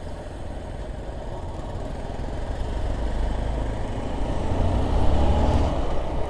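Motorcycle engine running during a ride, with road noise. The sound builds toward about five seconds in as another motorcycle passes close by.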